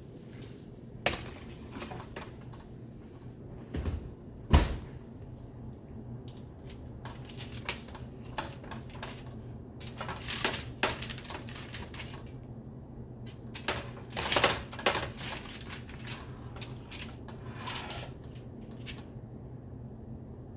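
Kitchen handling sounds: scattered clicks, taps and knocks of dishes, utensils and cupboards, with one louder knock about four seconds in and busier clatter near the middle, over a steady low hum.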